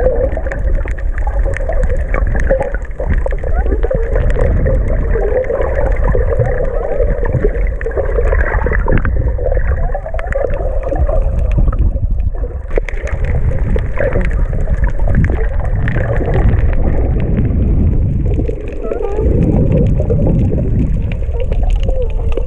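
Underwater sound picked up by a GoPro: a steady low rumble with a wavering hum and many small clicks and crackles, the 'mystery sound' whose source is unknown.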